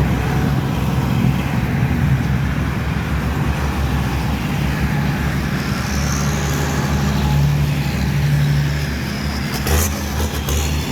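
Large vehicle engines running with a steady low drone, the note rising and falling a little partway through; a short knock about ten seconds in.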